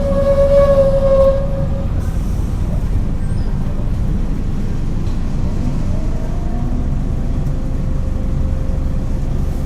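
Scania L94UB bus interior: the DC9 9-litre six-cylinder diesel and drivetrain running with a steady low rumble. A steady whine stops about two seconds in, and a fainter whine rises in pitch a few seconds later.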